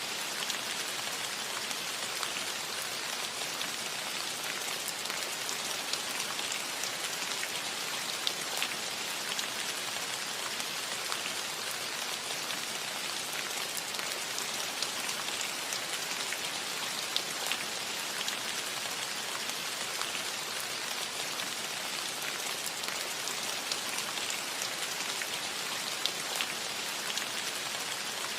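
Steady rain falling on a roof: an even hiss with many scattered sharp drop ticks.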